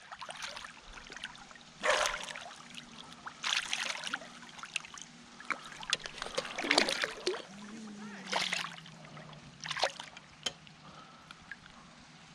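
Water splashing and sloshing in a shallow, flowing creek, in irregular bursts every second or two, over a faint background of running water.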